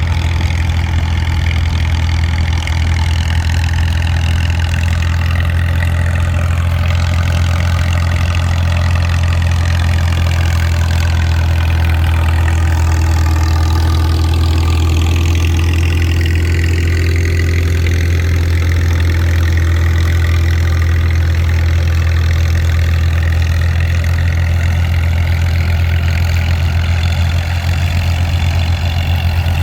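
Tractor engines running steadily: a deep, constant drone, with fainter higher engine tones slowly rising and falling over it.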